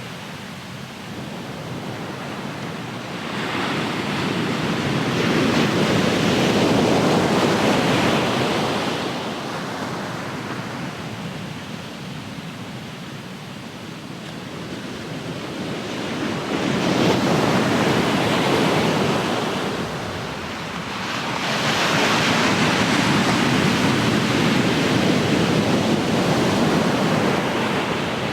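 Ocean surf breaking and washing up the shore, rising and falling in three surges of rushing water about a third of the way in and twice more in the second half.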